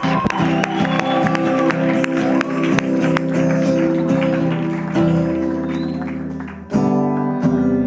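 Live acoustic guitar holding and strumming chords at the close of a worship song, with scattered clapping from the crowd through the first few seconds. New strums come in near the end.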